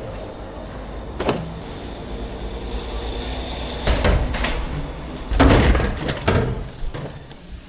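Heavy items being moved during truck unloading: a steady rolling rumble with a faint high whine for about the first half, then several sharp knocks and clatters.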